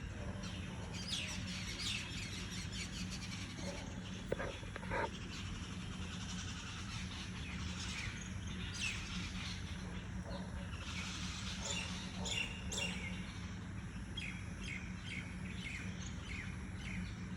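Several small birds chirping and tweeting, short high calls overlapping throughout, over a steady low hum.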